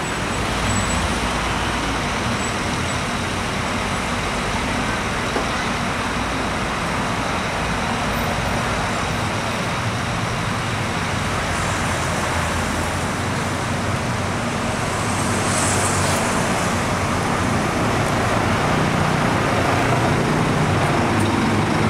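Diesel engines of Scania K410 double-decker coaches running slowly, a steady rumble that grows louder over the last several seconds as a coach comes close.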